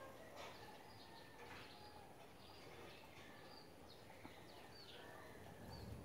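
Faint songbird chirping: short, high chirps repeated every half second or so over a steady outdoor hiss.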